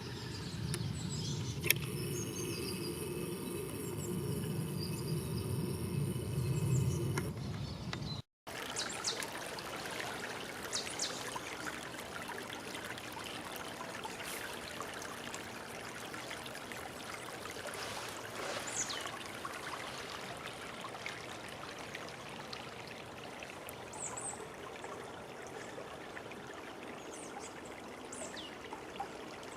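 Steady rush of running water from a stream, with a few short, high bird calls over it. The sound drops out for a moment about eight seconds in, and the fuller, lower rush before the break gives way to a thinner hiss.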